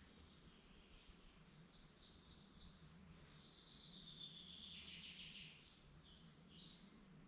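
Faint woodland birdsong. A run of four quick high falling notes comes about two seconds in, then a longer warbling phrase, then a few short high notes near the end.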